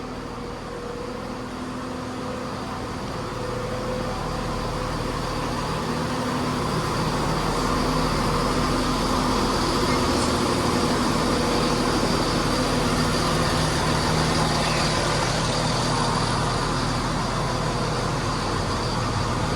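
Diesel engines of a pair of Class 170 Turbostar multiple units running at a platform before departure, a steady engine hum that grows louder over the first several seconds and then holds.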